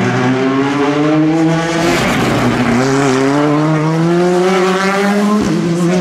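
Rally car engine accelerating hard: its pitch climbs, falls back sharply about two seconds in, climbs again for about three seconds and falls back once more near the end, like upshifts under full throttle.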